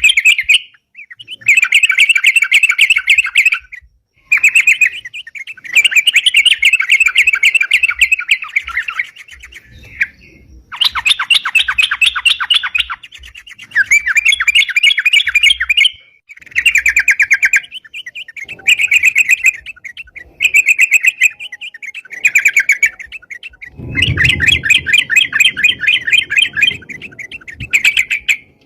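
A yellow-vented bulbul (crucukan) singing loudly and persistently: repeated bursts of rapid, chattering notes, each phrase lasting one to three seconds with short pauses between. A low rumble sits under the song near the end.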